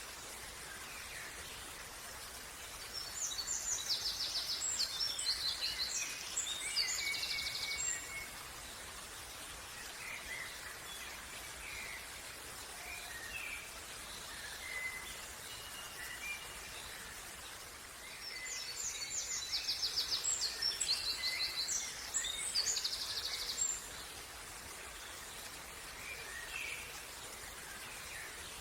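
Songbird singing over a steady background hiss of outdoor ambience: two long, high-pitched trilling song phrases about fifteen seconds apart, with short scattered chirps between them.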